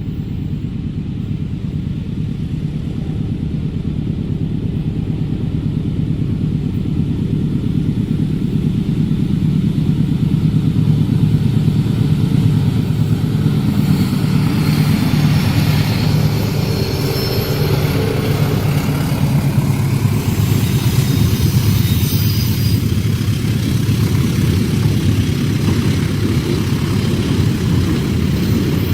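Diesel-hauled passenger train passing at speed: the locomotive's engine drone builds over the first several seconds, and from about halfway through a high-pitched hiss and squeal of wheels on the curved track joins the steady rumble of the passing coaches.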